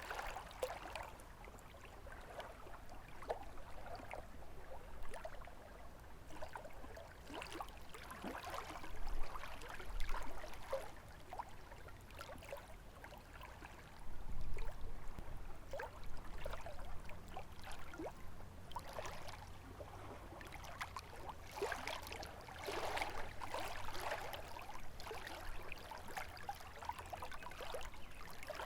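Small lake waves lapping and splashing irregularly at the shore. A low wind rumble joins in about halfway through.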